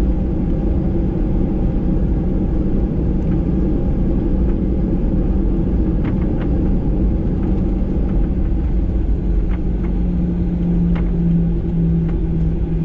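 Boeing 737-800's CFM56 engines and airframe heard from inside the passenger cabin: a steady low rumble, with a hum that grows stronger about ten seconds in.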